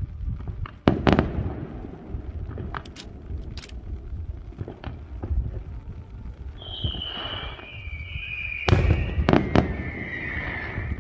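Aerial fireworks going off: a loud bang about a second in and two more near the end, a few sharper, fainter cracks between, and a whistle sliding down in pitch through the last few seconds.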